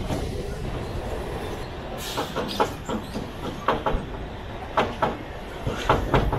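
Mumbai suburban EMU (electric local train) running at speed, with a steady rumble. From about two seconds in, the wheels click over rail joints in groups of two or three, roughly once a second.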